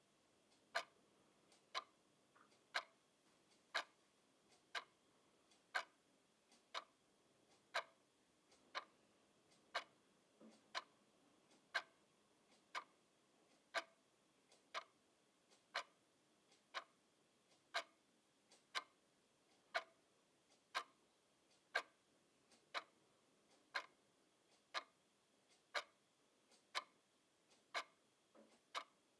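Clock ticking steadily at about one tick a second, each tick a sharp click.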